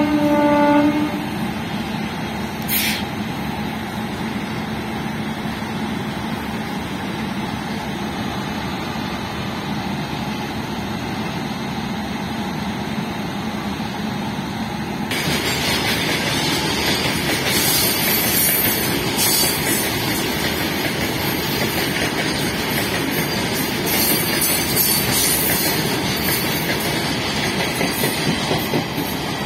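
A locomotive horn sounds a chord that cuts off about a second in. Then a freight train of covered BCNA wagons rolls past with a steady rumble, which turns louder and harsher about halfway through, with irregular clatter from the wheels on the rails.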